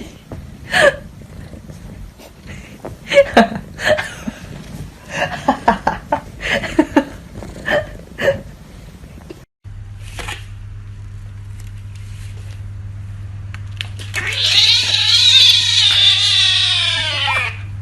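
A cat giving a long drawn-out yowling meow of about three seconds that rises and then falls, followed by a shorter one, over a steady low hum. Earlier come short, separated vocal bursts.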